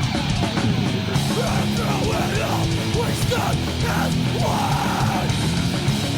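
Heavy metal band recording playing without vocals: distorted electric guitars over bass and drums, with guitar notes repeatedly bending up and down.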